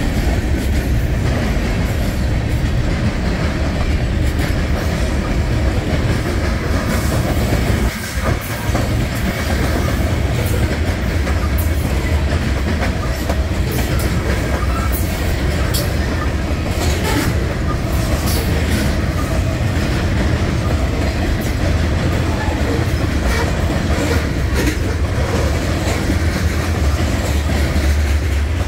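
Freight cars of a mixed manifest train rolling past close by: a loud, steady rumble of steel wheels on rail with the clickety-clack of wheels over rail joints, the clacks coming thicker in the middle of the passage. The sound briefly drops about eight seconds in.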